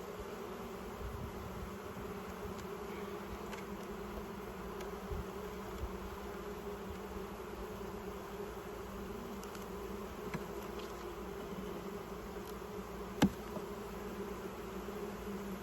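Honey bees buzzing steadily around an open hive, with one sharp click about thirteen seconds in.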